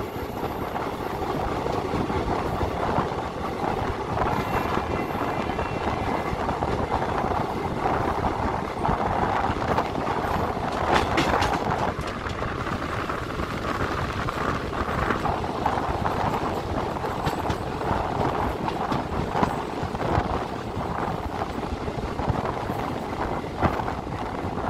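Passenger train in an ICF-type coach running at speed, its wheels clattering steadily over the rail joints.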